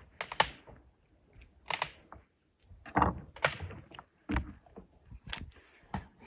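Several irregular knocks and thuds, some in quick pairs, with near-quiet gaps between them.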